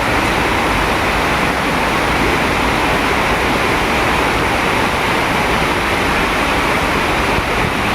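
Monsoon rain falling steadily, a loud, even rush of water with no separate drops or breaks.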